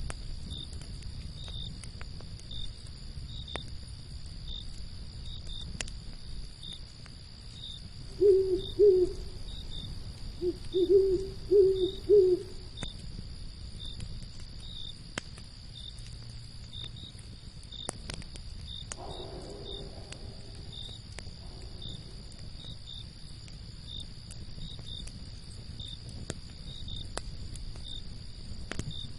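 Owl hooting: two hoots about eight seconds in, then a run of four or five more a couple of seconds later, the loudest sound here. Under it, crickets chirp steadily and a campfire crackles with scattered sharp pops.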